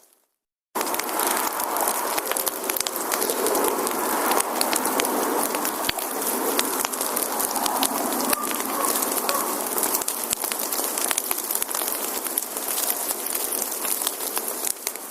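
Wood fire burning: dense crackling and sharp pops over a steady hiss. It cuts in suddenly after a short silence at the start.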